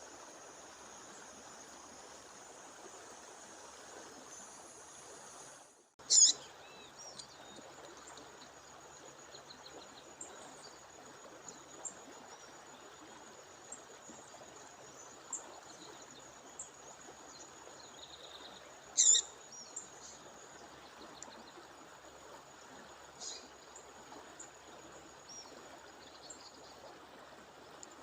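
Female bird giving short, sharp, high calls, loudest about six seconds in and again near nineteen seconds with a weaker one after, over the steady rushing of a waterfall.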